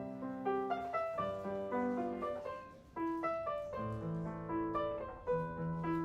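Background piano music: a gentle melody of single notes over sustained chords, with a short dip in level about three seconds in.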